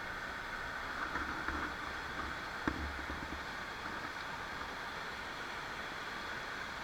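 Steady rushing of river water flowing past stepping stones, with a few low bumps of wind or handling on the microphone a second or two in and one sharp click partway through.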